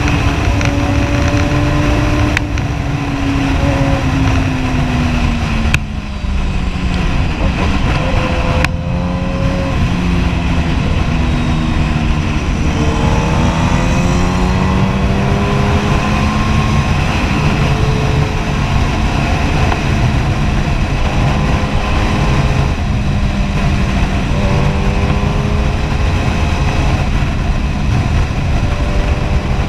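Kawasaki Ninja ZX-10R's inline-four engine running while the bike is ridden. Its pitch falls over the first several seconds and climbs again a little before halfway, then holds fairly steady.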